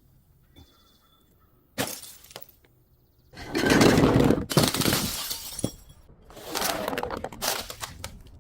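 Glass bottle being broken: a sharp crack just under two seconds in, then two long stretches of glass crunching and shattering.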